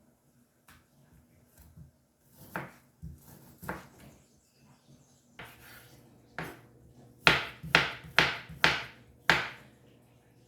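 Knife chopping on a cutting board: a few separate cuts, then a quicker run of five loud chops about half a second apart.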